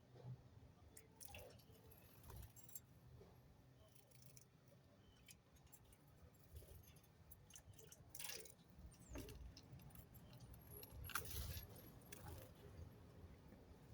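Faint scattered clicks and light rattles, with a few sharper ones about a second in, around eight seconds in and around eleven seconds in.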